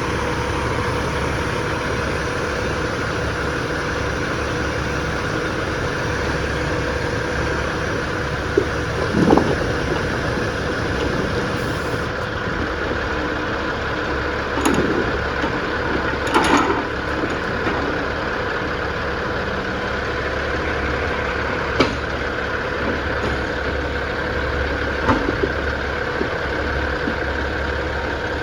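Heavy diesel engine idling steadily at a logging site, with a few short knocks and clanks scattered through.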